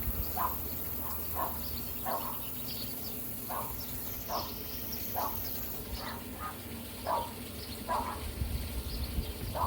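A bird calling over and over, short sharp notes a little more than once a second, over a steady hiss.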